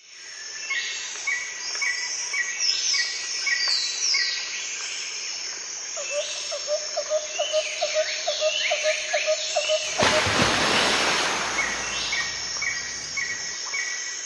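Several birds singing: repeated short chirps and falling whistled calls, with a fast rattling trill of lower notes midway. A rushing noise rises over them for about three seconds near the end.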